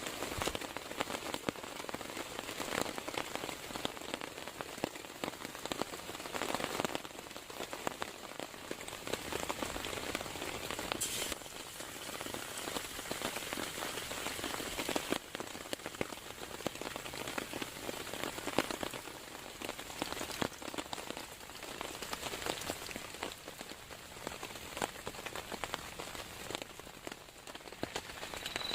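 Steady rain with a dense patter of drops striking a surface close by; no thunder.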